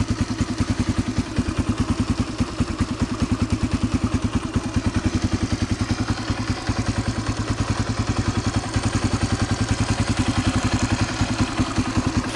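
2005 Yamaha TTR125L's single-cylinder four-stroke engine idling steadily with an even, rapid exhaust pulse. It is still warming up after a cold start and not yet ready to rev.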